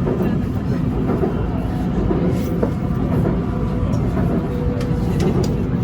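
Steady low rumble of a BTS Skytrain carriage running, heard from inside the car, with a faint steady whine near the end.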